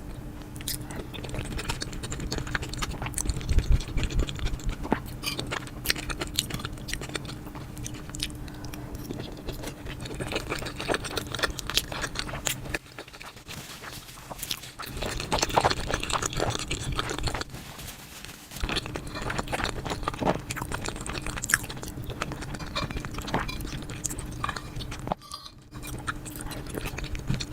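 A person eating close to the microphone: a steady run of chewing, biting and crunching with many small clicks and smacks, pausing briefly twice.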